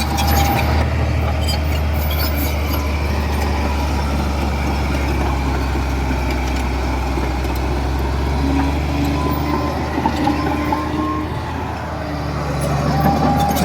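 Heavy diesel engine of earthmoving machinery running steadily with a low drone; the note dips briefly and picks up again near the end.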